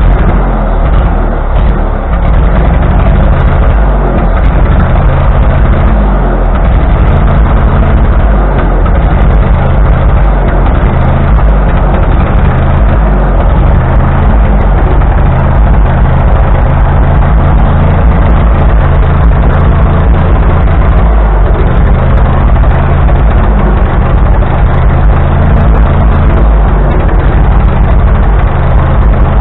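1945 Ford 2N tractor's four-cylinder flathead engine running steadily, loud and close.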